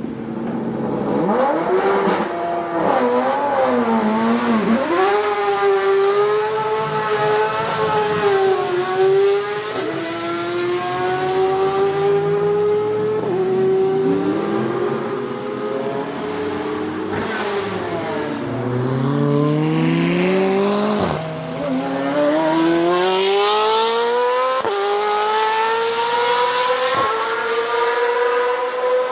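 Nissan 370Z's 3.7-litre V6 under hard driving. The engine note rises and falls with the revs, and cuts off sharply several times as gears change.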